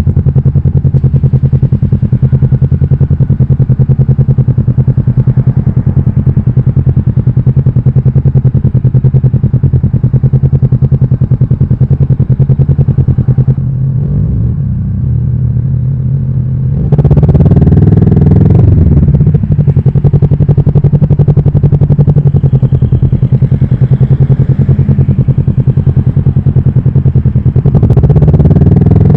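Kawasaki Vulcan S parallel-twin engine running under way at a steady note. About 14 s in the throttle eases off and the engine goes quieter. It then picks up again with a rising rev about 17 s in, and once more near the end.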